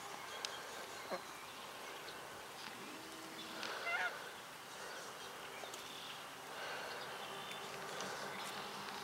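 Fowl calling in the background, with one louder wavering call about four seconds in, over steady outdoor ambience.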